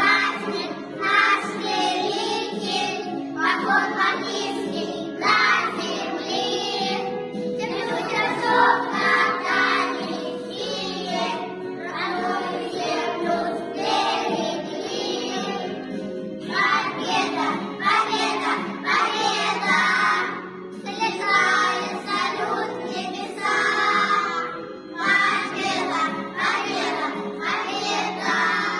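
A children's song: young voices singing in phrases over a steady instrumental accompaniment.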